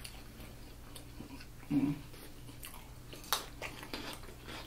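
Close-miked chewing and mouth sounds of a person eating, with a short low hum about two seconds in and a few sharp clicks, the clearest a little after three seconds.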